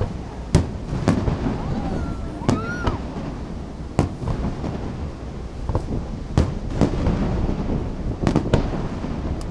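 Aerial fireworks shells bursting during a finale: about ten sharp booms at irregular intervals, some in quick succession, over a steady low rumble.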